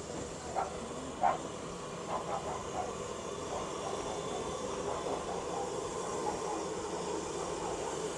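Steam locomotive standing with a steady hiss, with a few faint short sounds in the first three seconds.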